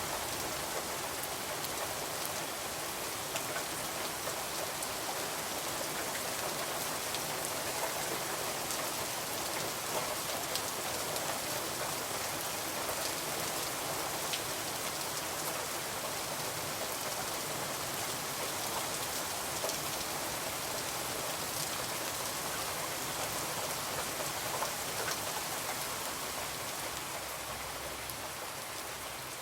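Steady rain falling on a window: an even, continuous hiss with scattered sharp ticks of single drops.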